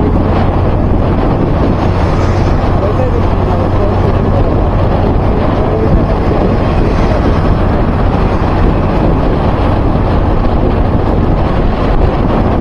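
Heavy wind buffeting on the microphone over vehicle and road noise while travelling, a steady low rumble with no change.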